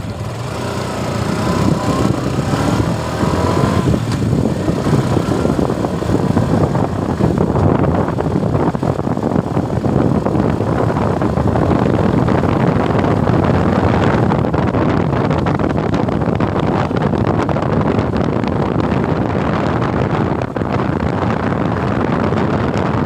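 Suzuki Gixxer single-cylinder motorcycle under way, its engine running beneath a heavy rush of wind over the microphone.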